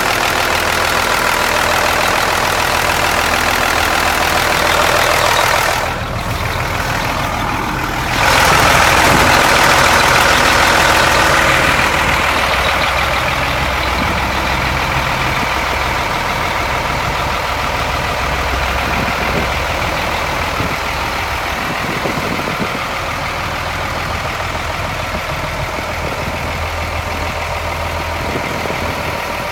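1986 Mack dump truck's diesel engine running at idle. About six seconds in it drops away briefly, then comes back louder for a few seconds before settling to a steady idle.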